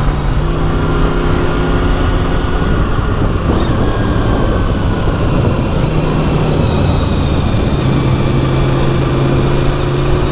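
Honda VFR's V4 engine running at a steady, moderate pace on the road, with wind and road noise over it. The engine note dips slightly about eight seconds in, then starts to rise near the end.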